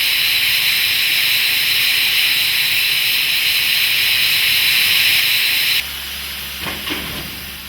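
Steam locomotive letting off steam: a loud, steady, high-pitched hiss that cuts off suddenly about six seconds in, leaving a quieter low hum with a few knocks.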